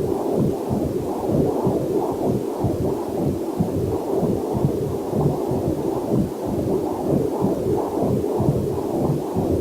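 Fetal Doppler heart monitor picking up a heartbeat as a steady, rapid, rhythmic pulsing whoosh, with the energy low and muffled.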